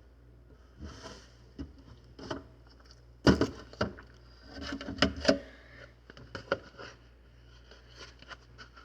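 Irregular knocks, scrapes and rustling of a person shifting about in a cramped refrigerator, the loudest knock about three seconds in and a cluster of them near the middle, over a low steady hum.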